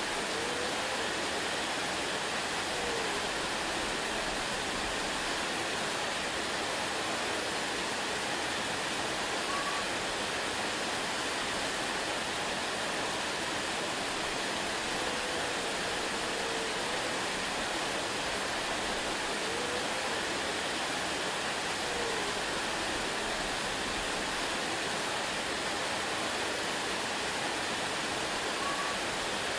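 Waterfall rushing steadily, with a few faint brief whistle-like notes here and there.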